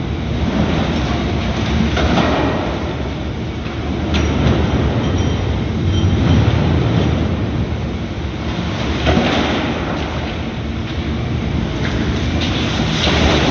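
Volvo ECR235EL excavator's diesel engine running steadily under load, with the noise of the machine working swelling every few seconds and a sharp clank about four seconds in.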